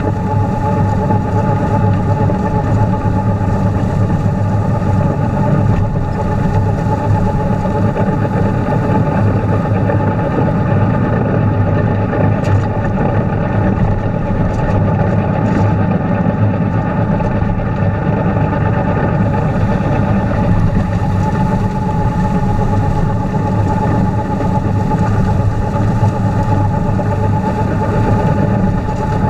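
Tractor engine running at a steady speed with a three-point-hitch snowblower, a steady whine over the engine hum.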